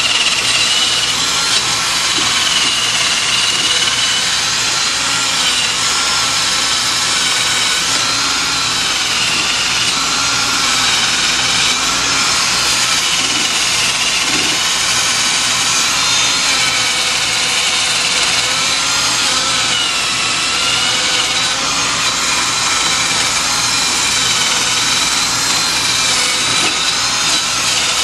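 Power tool spinning a wire brush against a car's front wheel hub, scrubbing the surface rust off the rotor mounting face. A steady loud whine whose pitch wavers up and down as the brush is pressed and eased.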